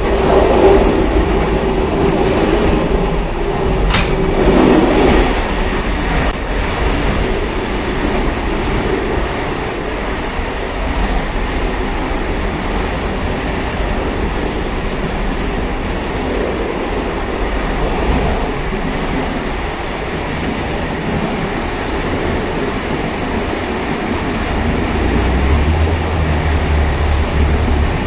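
Railcar running along the track: a continuous rumble of wheels on rails. There is a sharp click about four seconds in, and a low drone comes up near the end.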